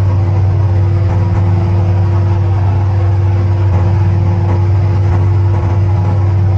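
Light aircraft's piston engine and propeller running steadily at takeoff power, a loud, even drone with a deep hum and no change in pitch.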